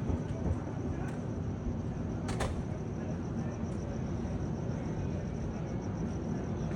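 Steady low rumble of jet aircraft passing overhead at night, with a thin steady high-pitched tone throughout and one sharp click a little over two seconds in.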